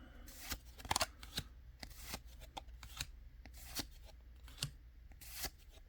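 Pokémon trading cards being handled and flipped through by hand: a string of irregular light snaps and slides of card stock.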